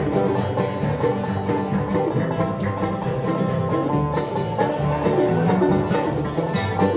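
Acoustic bluegrass band playing an instrumental break with no vocals, a banjo's fast picking prominent over guitar.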